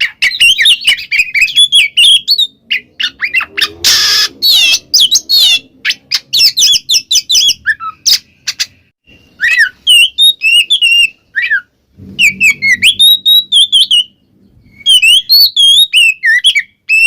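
Oriental magpie-robin (kacer) singing loudly in fast runs of varied, sliding whistled notes mixed with harsh rasping calls, with short breaks between bursts.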